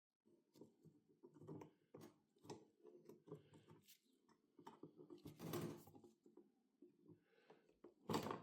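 Faint, irregular clicks, taps and scraping of small objects being handled, with a longer scrape about halfway through and a sharper knock near the end.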